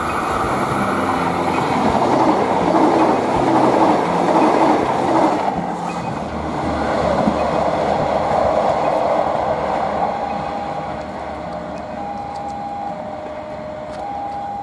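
Prambanan Ekspres passenger train passing by, with a steady rumble and clatter of wheels on rails that swells and then eases. From about ten seconds in, two steady tones alternate at different pitches.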